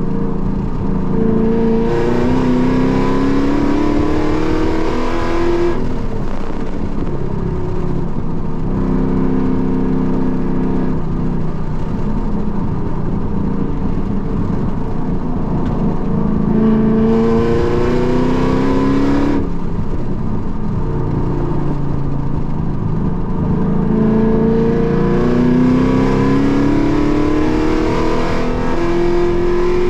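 Car engine heard from inside the cabin under hard acceleration, its pitch climbing in steps through the gears three times. The throttle is lifted sharply about six seconds in and again about nineteen seconds in, with steadier engine and road noise between the pulls.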